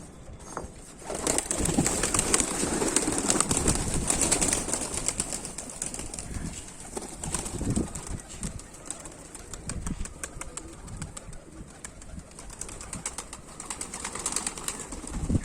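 Domestic pigeons at a rooftop loft, cooing and moving about. About a second in, a loud rush of noise lasts for a few seconds, then settles to quieter rustling.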